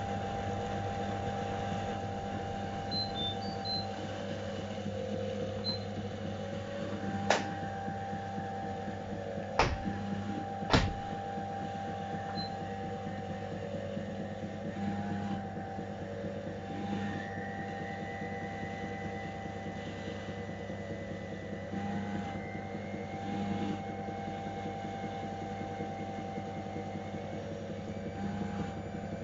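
AEG Öko-Lavamat 693 washing machine running a boil-wash cycle: a steady motor hum and whine whose pitch dips briefly every few seconds, with three sharp clicks a little past a third of the way through.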